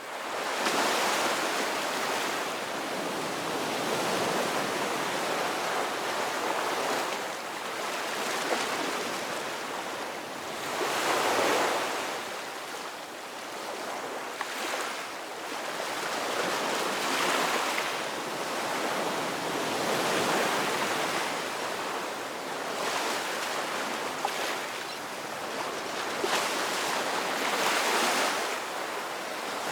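Ocean waves breaking and washing on a shore, in steady surges every few seconds.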